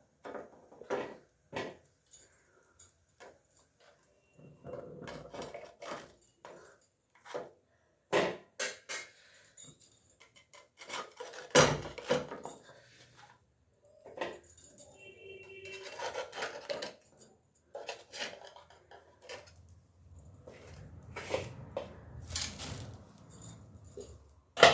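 Irregular clinks, knocks and scrapes of kitchen utensils and cookware being handled, in separate short strokes with a few busier stretches of handling.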